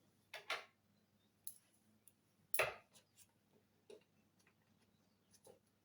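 Handling noises: a few scattered light taps and clicks, the loudest about two and a half seconds in, as a model airplane is handled and examined.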